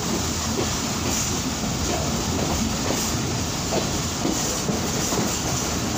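Passenger train running, heard on board: a steady rumble of wheels on rails with irregular clickety-clack clicks as the wheels cross rail joints and points.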